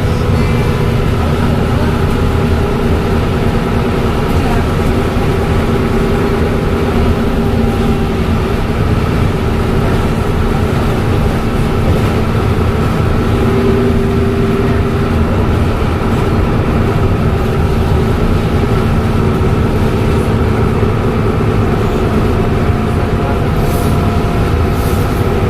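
Dennis Trident double-decker bus with a Voith automatic gearbox running at a steady pace: a loud, even engine and drivetrain drone with several steady whining tones over it, including the turbo whistle.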